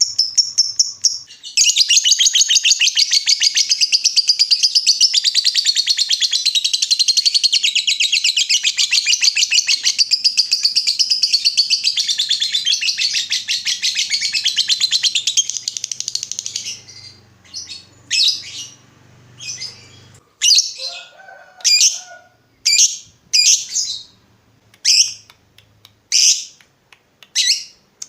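Lovebird ngekek: one long unbroken run of rapid high chattering that lasts about fifteen seconds, then breaks off into a string of short sharp chirps.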